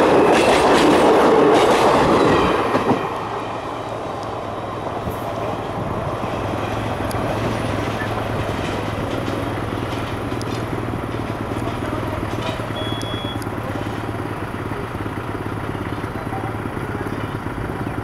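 Coaches of the 12704 Secunderabad–Howrah Falaknuma Express passing close at speed, wheels clattering over the rail joints; the sound drops off suddenly about three seconds in as the last coach goes by. Then a steady, quieter rumble with a faint low hum as the train draws away.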